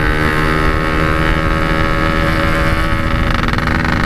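Yamaha RX-King's 135 cc two-stroke single-cylinder engine running at steady revs through a Packing Power aftermarket exhaust, with wind rumble on the microphone.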